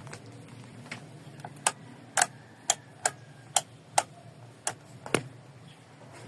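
About ten sharp clicks at irregular half-second intervals, typical of a starter relay clicking as the start button is pressed with no cranking, the sign of a weak or flat battery.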